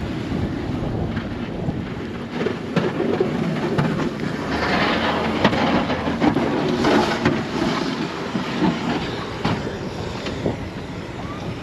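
Strong blizzard wind buffeting the microphone, a loud, gusting rush with irregular knocks and crunches through it.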